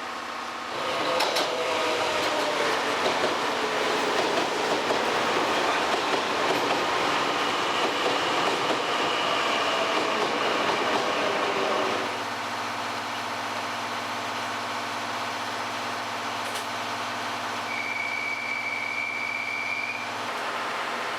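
A train running on the rails for about eleven seconds, with wavering wheel squeal over the running noise, after which it drops to a quieter steady hum. A single steady high tone sounds for about two seconds near the end.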